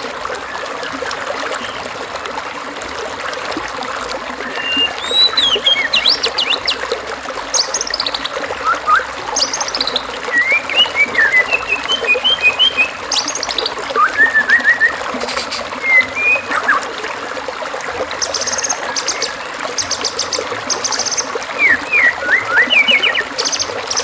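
A recording of assorted small songbirds giving short chirps, quick whistled notes and fast high buzzy trills, scattered and overlapping, over a steady trickle of running water. It is a masteran track, birdsong meant to be copied by a white-rumped shama.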